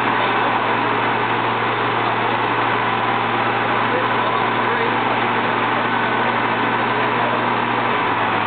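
Steady rush of a large cooling fan, with the Holden VR Commodore's 4.3-litre stroker V6 idling beneath it as a constant low hum that shifts slightly near the end.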